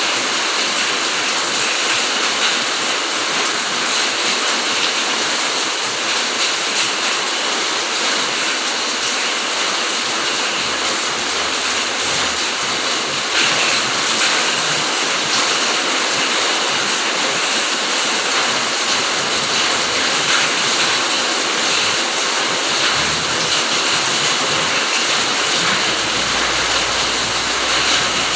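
Steady, even rain hiss with no breaks, with a faint low rumble near the end.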